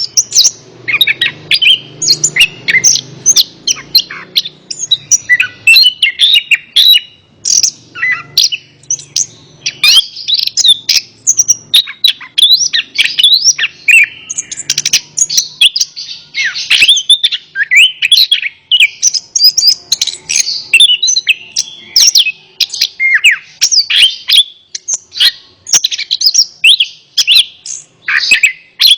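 Orange-headed thrush (anis kembang) singing a fast, unbroken run of varied chirps and whistles.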